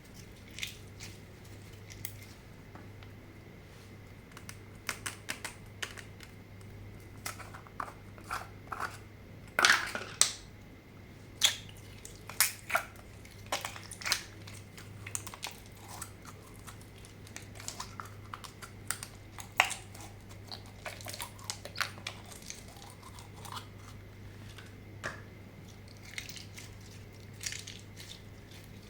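Slime being worked by hand, squished and stretched, making irregular sticky clicks and pops, some sharper and louder than others.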